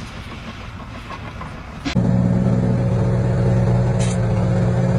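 A steady low motor hum starts abruptly about two seconds in, after a quieter stretch of mixed noise.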